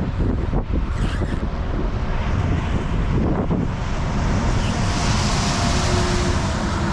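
Strong wind buffeting the microphone with a steady, heavy rumble, from the gusty winds around a tornadic thunderstorm.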